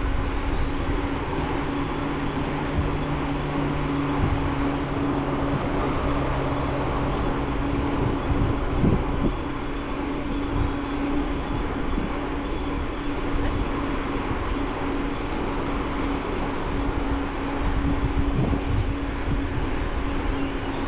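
Steady riding noise from a bicycle: tyres rolling and wind on the bike-mounted camera, with a steady hum throughout and a lower hum joining it for the first half.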